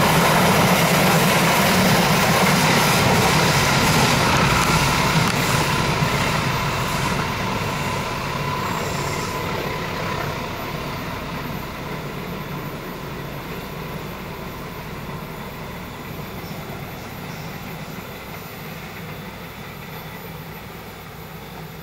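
Passenger train coaches rolling past on a curved track, the rumble of wheels on rail loud at first and fading steadily as the train moves away.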